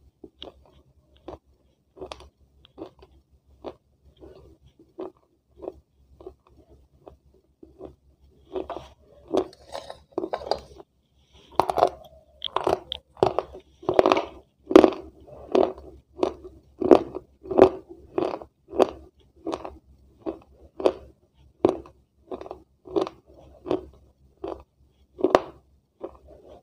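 A person chewing crunchy food with her mouth closed, close to a clip-on microphone: a steady run of crunches about one and a half a second, soft at first and much louder from about a third of the way in.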